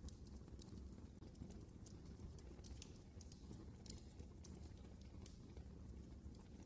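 Wood fire crackling in a fireplace: faint, irregular sharp snaps and pops over a low, steady rumble of the flames.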